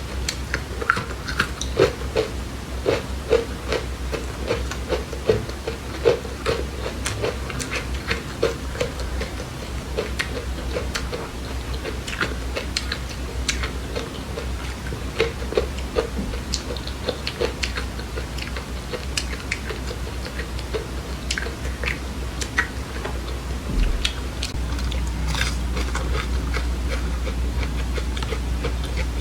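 A person chewing dry seeds, with many small, irregular crisp crunches and clicks.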